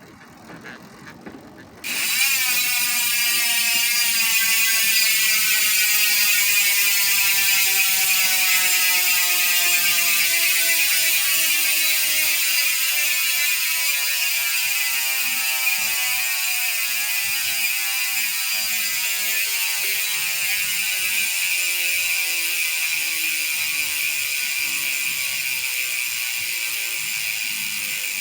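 Hassns Pro 7 rear bicycle hub freewheeling: its ratchet buzzes loudly as the spun wheel coasts. The buzz starts about two seconds in, and its pitch falls slowly as the wheel slows.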